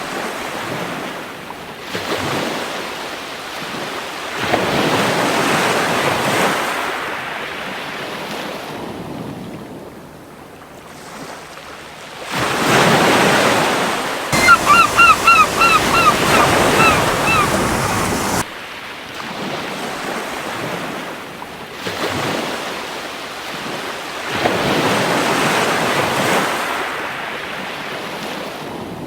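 Sea waves breaking and washing up a beach, swelling and fading every few seconds. About halfway through, a seagull calls in a quick series of about ten short notes.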